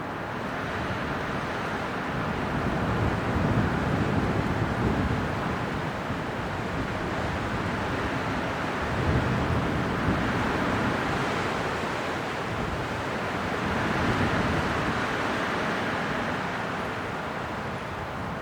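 Strong winter wind blowing in gusts, a steady rushing noise that swells and eases every few seconds.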